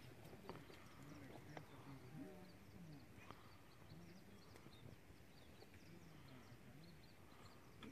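Near silence: faint open-air ambience with scattered soft, high bird chirps.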